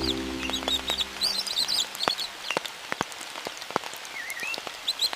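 Forest rain ambience: rain hissing with separate drops ticking irregularly, and small birds giving short high chirps. A held chord of background music fades out in the first second or so.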